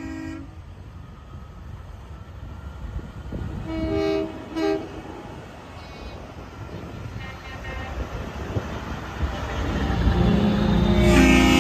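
A heavy vehicle's air horn sounds two short toots about four seconds in, over a low engine rumble. The rumble grows louder, and a longer, louder horn blast of several notes starts near the end.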